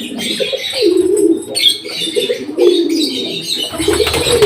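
Birds calling: doves cooing over and over, with higher chirping from smaller birds.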